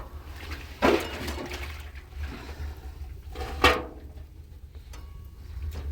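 Water poured or dumped into a bath basin in two sudden splashes, about a second in and again about three and a half seconds in, each quickly fading.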